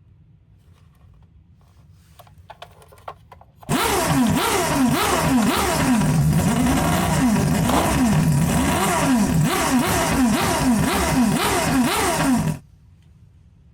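Electronic siren of a toy emergency vehicle, a quick rising-and-falling wail over a steady rattling hiss. It starts about four seconds in after a few faint clicks and cuts off suddenly near the end.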